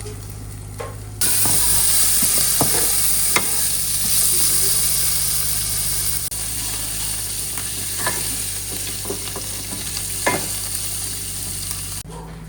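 Food frying in a pan with a steady sizzle, stirred with a few sharp clicks of a utensil against the pan. The sizzle starts abruptly about a second in and cuts off just before the end.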